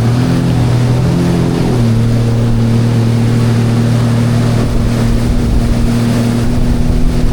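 Sea-Doo GTI 170 jet ski's three-cylinder engine running under way at a steady pitch. The engine note rises briefly about a second in, then drops back. Wind on the microphone and water noise run underneath.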